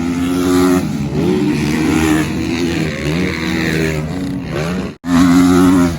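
A motor vehicle's engine running and revving, its pitch rising and falling repeatedly, with an abrupt break about five seconds in.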